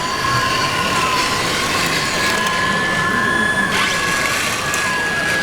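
Electric motors and hydraulic pumps of large-scale RC construction models whining steadily over a noisy background, with two thin whines at different pitches that come and go and bend slightly in pitch.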